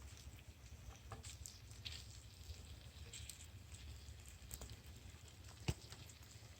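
Campfire crackling faintly with scattered small pops and one sharper crack near the end, over a low steady rumble.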